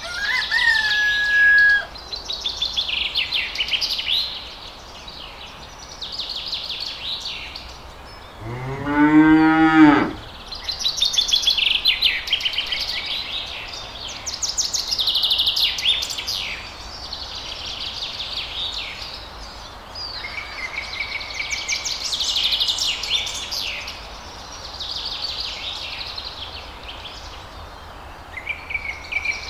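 A cow moos once, a single rising call about a second and a half long, roughly a third of the way in. Birds chirp in repeated bursts all through.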